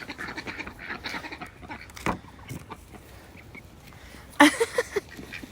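Chickens clucking in short, scattered calls, with one louder call a little after four seconds in.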